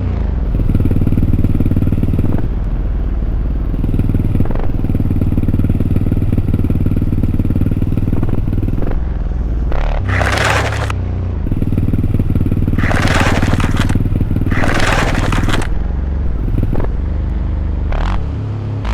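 Dirt bike engines running at low revs with a steady low drone, broken by a few short bursts of harsh, hissing noise about halfway through.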